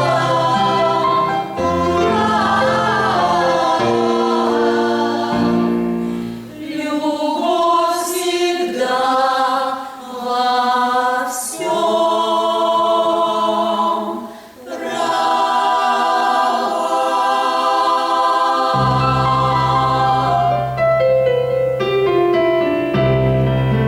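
Women's vocal ensemble singing in harmony, holding long notes over an instrumental accompaniment. A deep bass line comes in strongly near the end.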